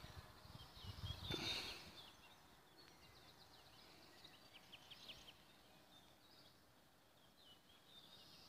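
Quiet open-air ambience with faint small-bird chirps. A brief louder noise comes about a second in.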